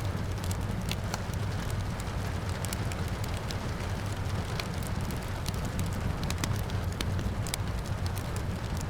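Wood fire crackling, with many irregular sharp pops and snaps over a steady low rumble, and rain falling steadily.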